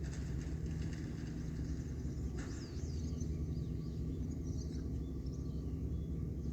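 Boat engines of work vessels running with a steady low rumble, while small birds chirp in high, quick calls a few seconds in. A brief sharp knock sounds about two and a half seconds in.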